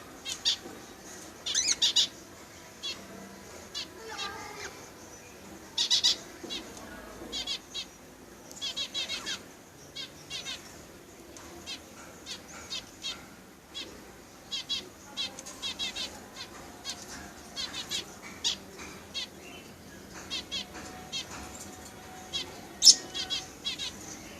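Budgerigars chirping and chattering: short high-pitched chirps and quick rattling chirp series, coming irregularly, with one loud sharp chirp near the end.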